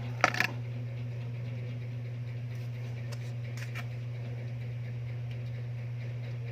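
A steady low hum, with a short burst of knocks in the first half second and a few faint clicks a few seconds in.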